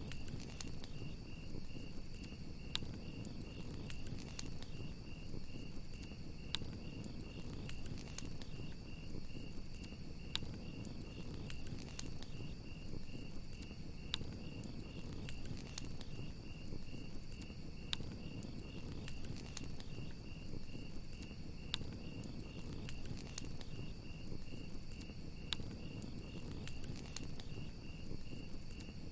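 Crickets chirping in an even, rapid pulse, about four chirps a second, over a crackling campfire with scattered sharp pops and a low steady rumble of the flames.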